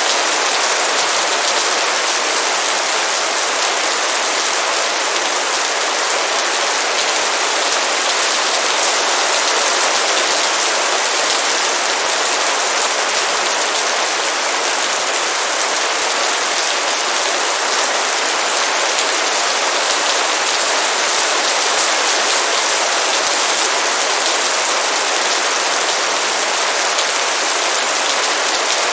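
Heavy rain downpour falling steadily, a dense, even hiss that does not change.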